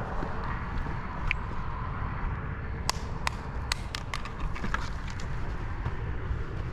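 Litter being handled during a roadside cleanup: a quick run of sharp clicks and rattles in the middle, over a steady low outdoor rumble.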